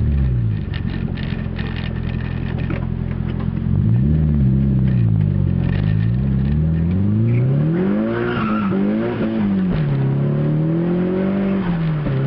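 Car engine being revved in a series of short blips from idle, its pitch rising and falling about five times, with some light clicking in the first few seconds. After repair work, the owner judges the engine to be finally running right.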